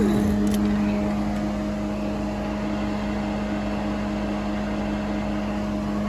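Steady engine hum and road noise heard from inside a moving vehicle's cabin.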